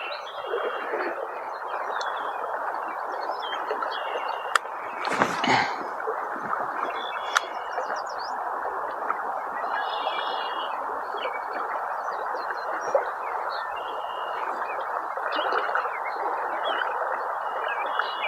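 Steady rush of fast-flowing river water, with small birds chirping over it again and again and a brief louder disturbance about five seconds in.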